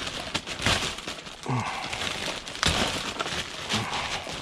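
Plastic trash bag rustling and crinkling as it is rummaged through, with items inside knocking against each other and a sharp knock almost three seconds in.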